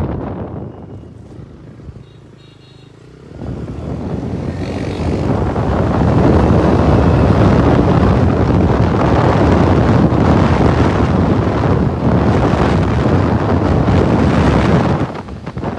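Wind rushing over the microphone of a moving motorcycle, with the bike's road noise underneath. It falls away quickly as the bike slows, then builds back up from about three seconds in as speed picks up, and eases off again just before the end.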